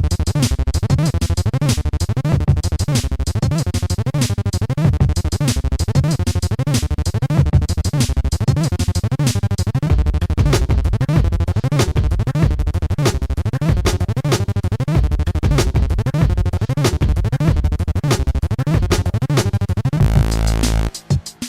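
Electronic music: synthesized sounds in a fast, evenly repeating pulse pattern over heavy bass, with pitch sweeping up and down on each pulse. Near the end the pattern gives way to a held low tone that breaks off in short gaps.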